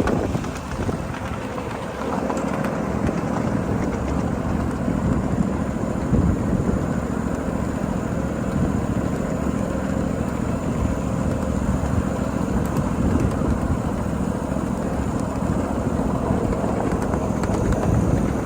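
Steady rolling rumble of a 7.5-inch gauge ride-on miniature train running along its track.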